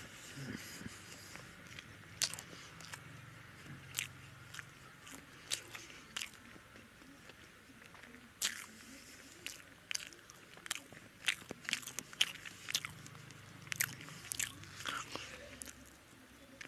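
A person chewing a mouthful of food close to the microphone, with irregular sharp wet clicks and smacks of the lips and mouth.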